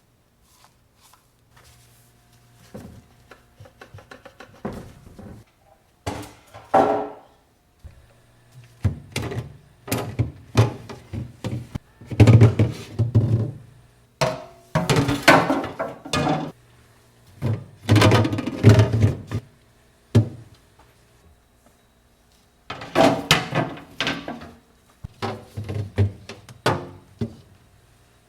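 Food containers, jars and fridge parts being handled and set down during fridge cleaning: irregular clusters of thunks, knocks and clatter, with short pauses between.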